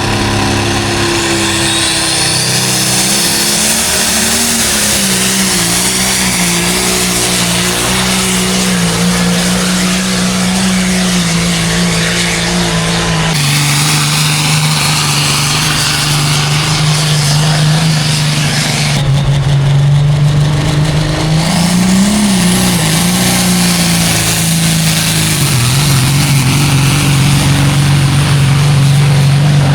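Heavy diesel semi-truck engine under hard load while pulling a weighted sled down a pull track. The engine note holds with small wobbles and drops lower twice, about halfway through and again near the end, as the load bogs it down.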